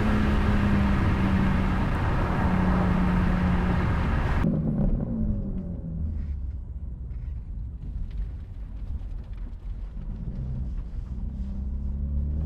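Stock BMW G80 M3 Competition's twin-turbo inline-six running at a steady engine note with road and wind roar. About four and a half seconds in the hiss drops away suddenly and the car settles to a quieter, lower drone. Near the end the engine pitch begins to rise again.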